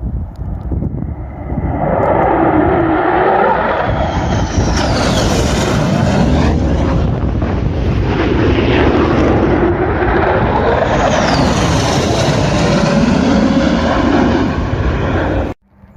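Low-flying F-35 Lightning jets, their turbofans roaring loudly as two pass by close, about six seconds apart, each with a sharply falling whine as it goes past. The roar cuts off suddenly near the end.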